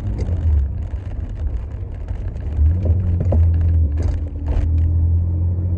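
BMW E30's swapped-in E46 2.8-litre straight-six running under way, a steady low drone with road rumble. A couple of sharp pops about four seconds in, the popping and banging of this modified car.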